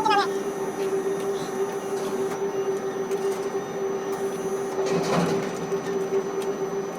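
Steady machinery hum with one constant tone under it, with a brief louder rush of noise about five seconds in.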